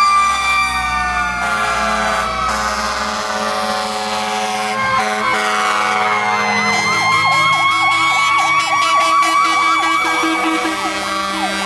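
Several fire truck sirens sounding at once: a long wailing tone that slowly falls over the first few seconds, then from about seven seconds in a fast yelp siren sweeping up and down over a steadier held siren tone. A low truck rumble sits under the first few seconds.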